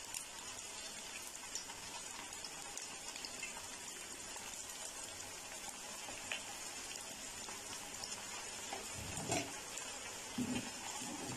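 Raw minced-beef kebab patties sizzling and crackling in hot oil in a frying pan, more patties being added one at a time. A few louder, dull knocks come near the end as a metal spatula goes into the pan.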